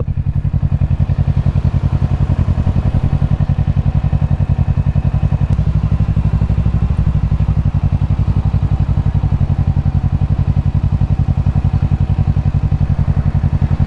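Kawasaki Ninja 650's parallel-twin engine running steadily at low revs, with fast, even pulsing. Its low note swells briefly about halfway through.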